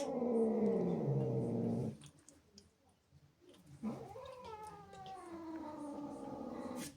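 Angry domestic cat yowling: one long drawn-out yowl falling in pitch that stops about two seconds in, then after a pause a second long yowl that rises and then slowly sinks.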